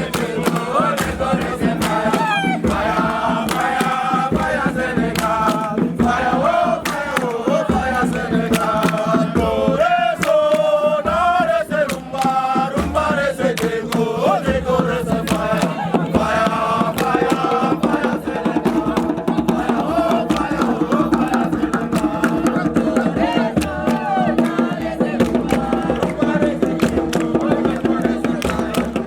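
A group of young voices singing a campfire chant together, accompanied by steady percussive beats.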